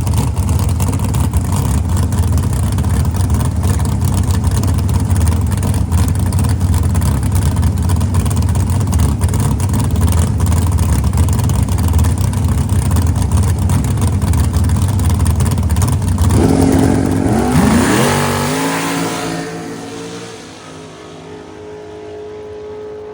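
Firebird drag car's engine running hard under a dense roar of wind and road noise at speed. About 16 seconds in, the engine's pitch falls away as the car slows, and it settles to a quieter, steady running near the end.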